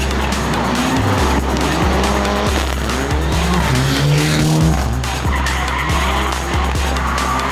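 Rally car engine revving, rising and falling in pitch, and tyres squealing as the car drifts, mixed over dance music with a steady thumping bass beat.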